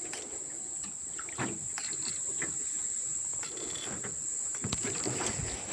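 Steady high-pitched insect drone, with faint scattered knocks and water sloshing around a small boat while a hooked fish is being played.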